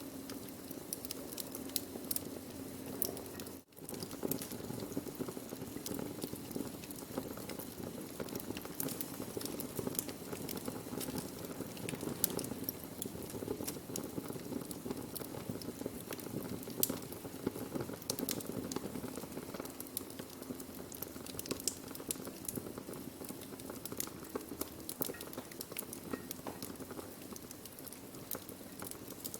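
Burning wood fire crackling, with many small sharp pops and snaps over a steady low hiss. The sound cuts out for a split second about three and a half seconds in.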